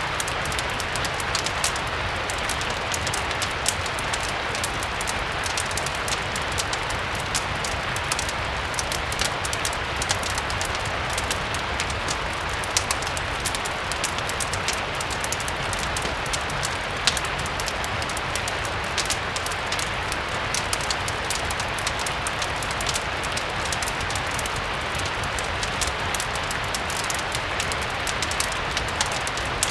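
Steady rain, an even hiss with a low rumble underneath, mixed with a crackling fireplace: many small sharp crackles and ticks scattered through it.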